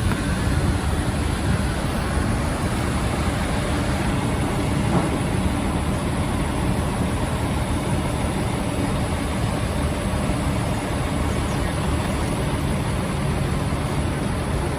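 Steady city traffic din, with vehicle engines running and a constant noisy hiss.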